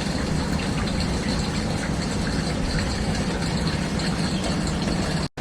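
Water gushing steadily from a leak that is flooding the apartment. It cuts off abruptly near the end.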